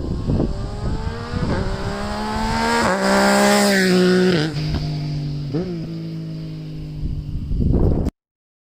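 Yamaha MT-09's three-cylinder engine breathing through an Akrapovic carbon exhaust, accelerating past with a rising pitch. It is loudest about three to four seconds in, then the pitch drops in steps as it goes by. The sound cuts off suddenly near the end.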